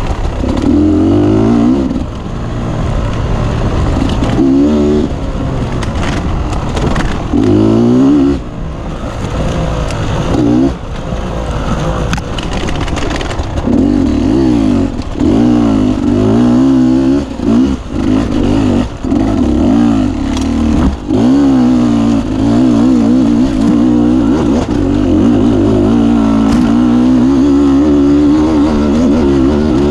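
Beta 250 RR two-stroke enduro engine being ridden hard, revving up and down again and again as the throttle is opened and chopped, with brief drops in engine sound and occasional knocks.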